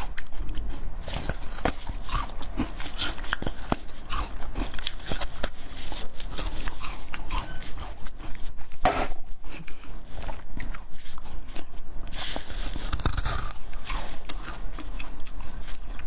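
A person biting and chewing watermelon close to the microphone, with crunching bites and chewing noises following one another throughout.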